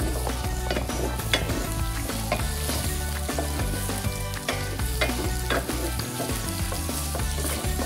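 Pork belly pieces with chopped onion, garlic and chili sizzling in a stainless steel pot while a wooden spatula stirs them, with several sharp clicks of the spatula against the pot.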